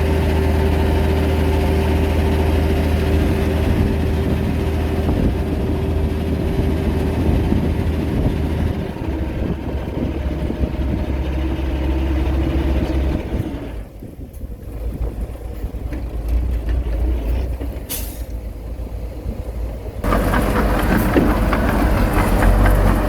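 Heavy diesel engines of earthmoving machinery, a bulldozer and a dump truck, running steadily. The sound drops lower about midway, a brief hiss comes a few seconds later, and a louder engine sound comes back suddenly near the end.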